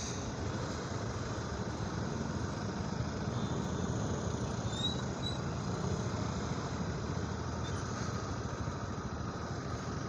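Steady traffic noise of vehicle engines idling in a traffic jam.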